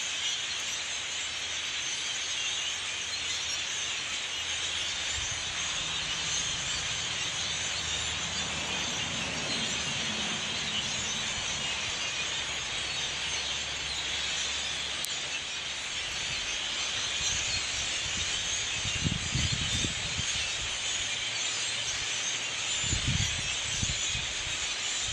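A huge flock of blackbirds calling all at once, a dense, steady, high chatter. A low hum rises and fades in the middle, and a few low thumps come near the end.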